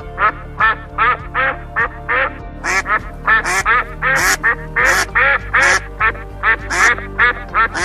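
A rapid series of short, loud animal calls, about two or three a second, over steady background music.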